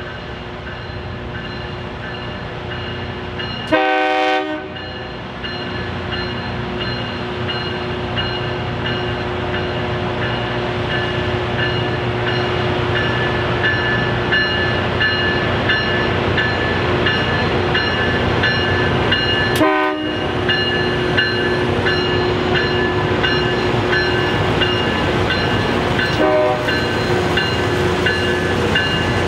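A train approaching, growing steadily louder, with three short air-horn blasts: a loud one about four seconds in, another near twenty seconds and a weaker one near twenty-six seconds.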